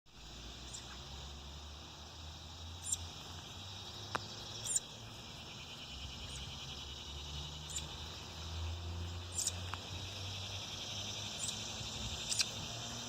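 Steady high insect trilling, like crickets, with short high chirps about every second or two and a low rumble underneath.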